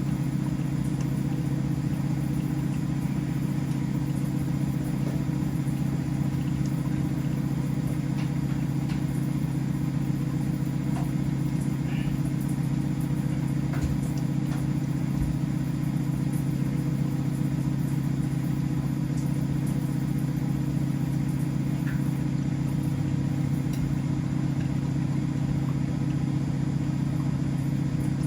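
Household laundry machines running: a steady, even motor hum with a few faint ticks scattered through it.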